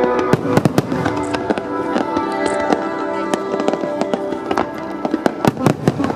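Fireworks bursting in quick succession, many sharp bangs and crackles a second, over music played on loudspeakers with steady sustained notes.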